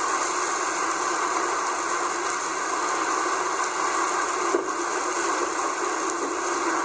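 Heavy rain falling as a steady, dense hiss.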